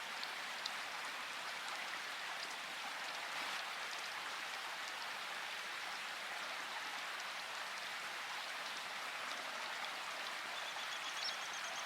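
Steady rain falling, a continuous even hiss with scattered individual drops ticking. A faint high tone sounds briefly near the end.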